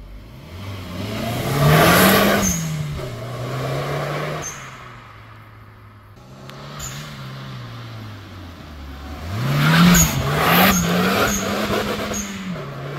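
Turbocharged Toyota Yaris 1.5 VVT-i four-cylinder accelerating hard past, twice. Each time the revs climb and drop with the gear changes. It is loudest, with a rushing hiss, as it goes by about two seconds in and again near ten seconds.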